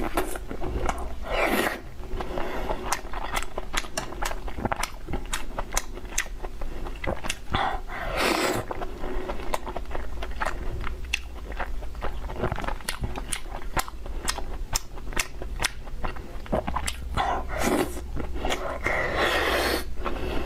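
Close-miked chewing of soft, sticky braised pork belly: many small wet mouth clicks and smacks, with a few longer, louder rushing sounds in between.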